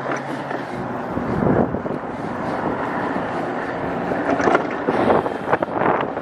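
Wind buffeting the microphone while riding an e-bike, with a steady rush of moving air and road noise and a few small knocks.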